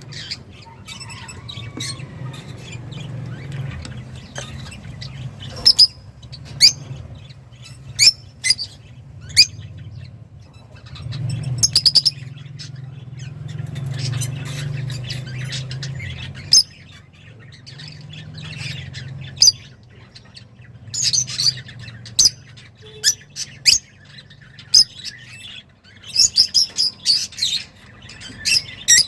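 A songbird, the finch that Arab bird-keepers call 'roz', singing in an excited state: scattered sharp, high chirps with short pauses between them, and quick clusters of notes near the end. A low steady hum runs underneath.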